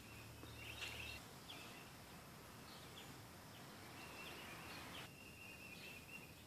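Faint birdsong: several short high chirps and a thin, steady high trill that comes and goes, over a low hum that stops about a second in.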